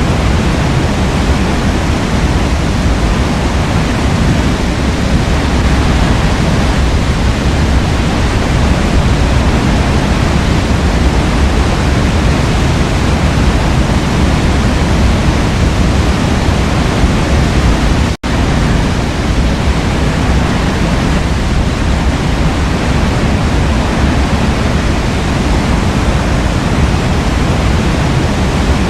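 Forest waterfall rushing steadily, a dense even roar of falling water heaviest in the low end. The sound cuts out for an instant about two-thirds of the way through.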